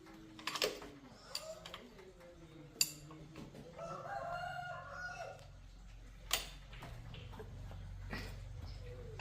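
A rooster crows once, about four seconds in, among sharp metallic clicks and knocks from tool work; a low steady hum starts a little past halfway.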